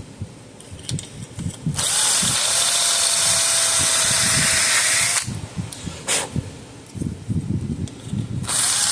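Electric drill with a step bit running for about three and a half seconds, starting about two seconds in: a steady motor whine over loud cutting noise. A short second run comes near the end, with small handling knocks between.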